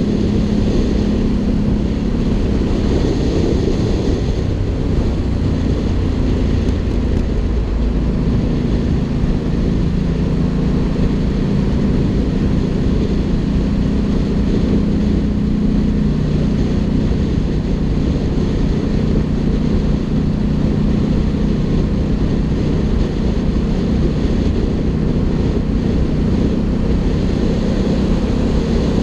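Ducati Hypermotard 796's air-cooled L-twin running through an Arrow aftermarket exhaust at fairly steady revs, with small changes in pitch, over a heavy low rumble.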